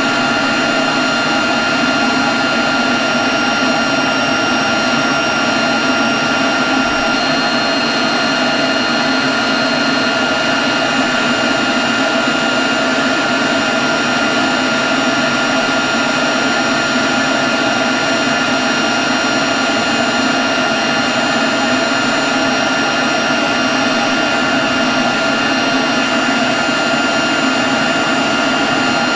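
Leaf blower running steadily at one constant speed: a rush of blown air with a few steady high whining tones over it.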